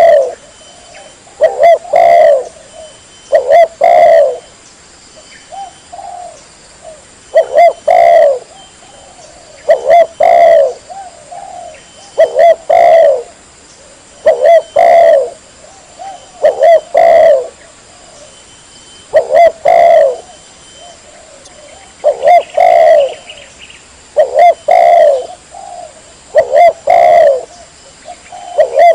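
Spotted dove cooing: short phrases of low coos repeated about every two seconds.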